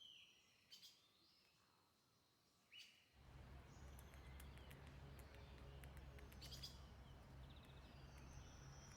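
Wild birds chirping and calling in short gliding whistles; about three seconds in, a noisier recording takes over, with a low hum and hiss under more bird chirps.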